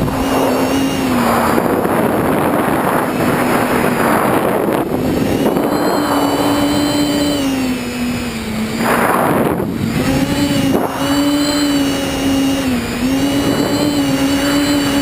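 Tricopter's electric motors and propellers buzzing in flight, the pitch wavering and dipping as the throttle changes. Brief rushes of wind noise come and go over the buzz.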